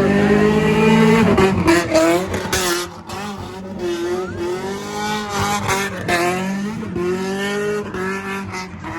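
Drift car's engine revving up and down hard with tyres squealing, loudest in the first three seconds and then a little quieter as the revs keep rising and falling.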